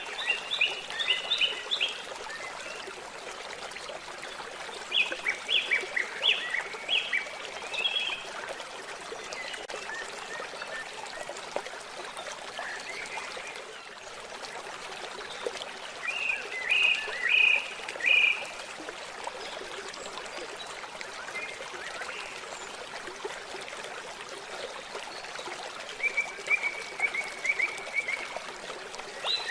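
Steady running, trickling water with a songbird that sings a short phrase of quick, high, falling notes four times.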